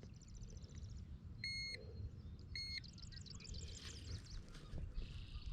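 Digital fish scale beeping twice: short, high electronic beeps about a second apart while it reads the weight of a bass. Faint, fast bird trills come and go behind it.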